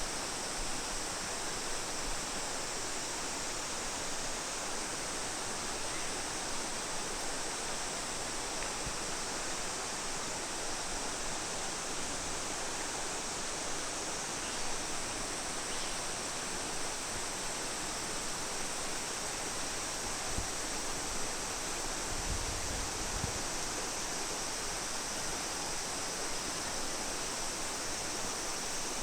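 Steady rush of running water, an even hiss that holds unchanged throughout, with a few soft low thumps about two-thirds of the way through.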